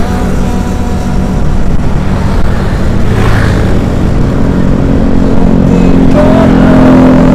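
Road traffic: a motor vehicle engine running over a steady road rumble, with the engine note growing louder in the last couple of seconds.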